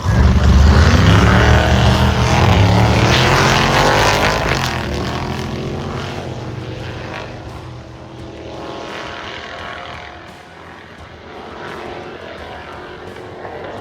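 Drag racing car launching and accelerating hard down the strip, its engine very loud at the start and fading as it pulls away. The revs drop briefly partway down the track and then climb again, the mark of a throttle stop used to run close to a target time in a throttle stop qualifier.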